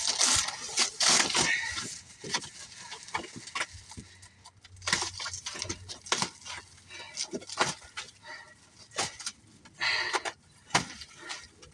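Irregular knocks, clicks and scraping from hand work on a motorcycle shipping crate, with heavy panting breaths between them.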